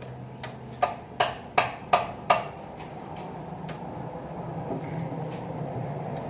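Five sharp metal clicks about 0.4 s apart, from a 13 mm wrench working loose the oil drain plug on a truck's oil pan.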